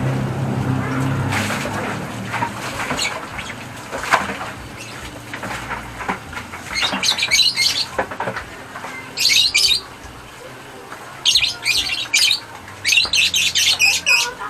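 A bird squawking and chirping in repeated clusters of short, high bursts through the second half. A low steady hum fades away in the first couple of seconds.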